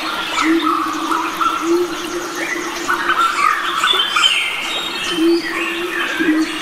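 A chorus of many wild birds chirping and singing over one another, with a low, repeated hooting note underneath.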